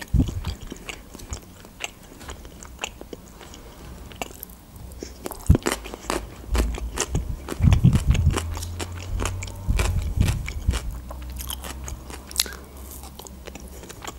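Close-miked chewing of a mouthful of food, with many sharp wet mouth clicks and a few low thuds from about halfway through.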